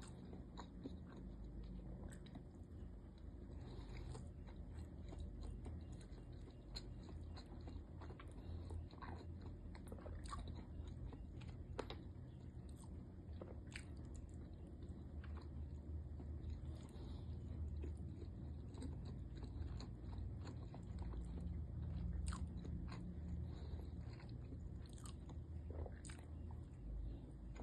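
Close-miked mouth sounds of someone chewing and biting into siomai (steamed pork dumplings): many small wet clicks, over a low steady hum.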